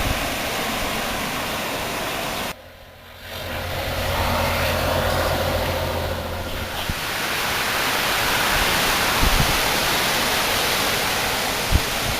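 Storm noise of gusting wind and rain, a steady loud rush, broken by a sudden brief drop about two and a half seconds in; a low hum sits under it for a few seconds after that.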